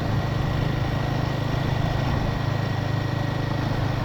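Royal Enfield Himalayan 450's single-cylinder engine running steadily while riding on a rough, broken road, with wind and road noise on the microphone.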